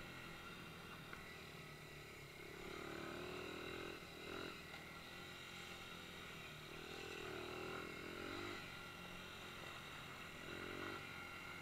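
Dirt bike engine running while it is ridden, rising in pitch a few times as the throttle is opened, around three, seven and ten seconds in.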